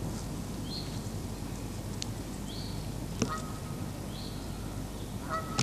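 A bird repeating a short, high call three times, about every two seconds, over a steady low rumble and hiss, with a couple of faint clicks.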